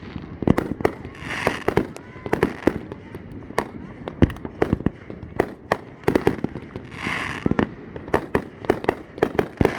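Fireworks going off in quick succession: a dense string of sharp bangs and cracks, several a second, with no let-up.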